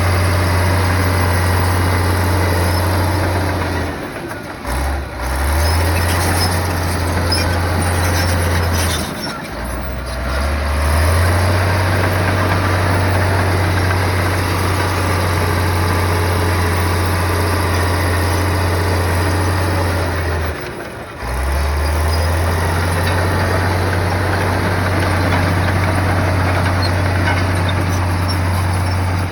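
Heavy bulldozer's diesel engine running hard and steady, its pitch sagging briefly three times and picking back up.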